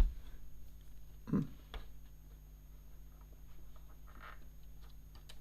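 Faint clicks and taps of plastic building bricks being handled, with a short murmured sound from a person about a second in.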